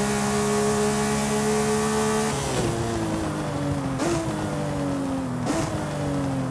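Porsche Speedster's flat-six engine pulling with slowly rising revs, then lifting off about two seconds in. It slows with falling revs, broken twice by short sharp throttle blips, as on downshifts while braking.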